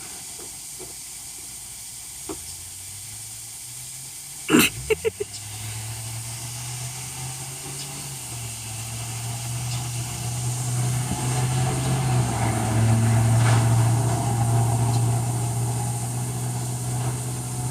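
A low vehicle engine hum builds gradually from about five seconds in, is loudest a little past the middle, then eases slightly, like a vehicle going by, over a steady hiss. A brief sharp sound comes just before the hum begins.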